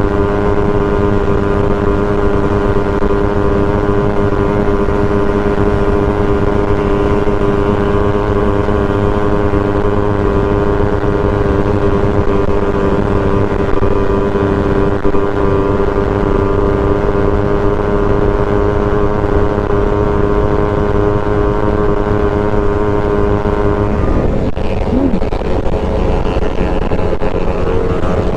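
Suzuki Raider 150 Fi single-cylinder four-stroke engine running at steady high revs at speed, with wind rush over the bike. The engine note changes and briefly glides about three-quarters of the way through.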